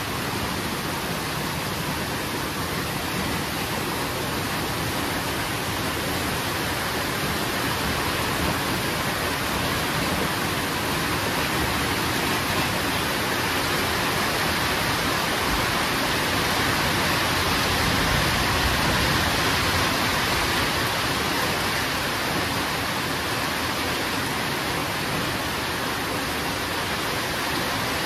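Heavy rain falling steadily, a dense even hiss that swells a little in the middle.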